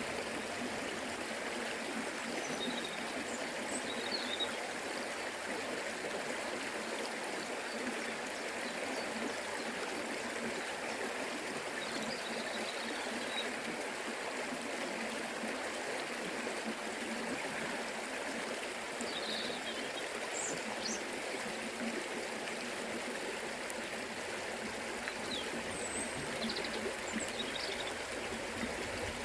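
Forest river flowing: a steady rush of water over rocks, with a few faint high chirps now and then.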